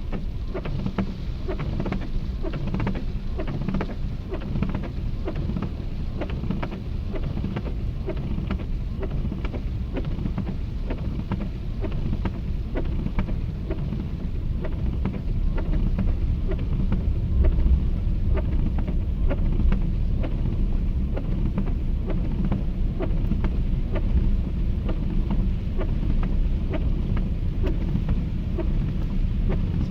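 Swat River in flood, its water rushing in a heavy, steady low rumble with constant splashing, getting a little louder about halfway through.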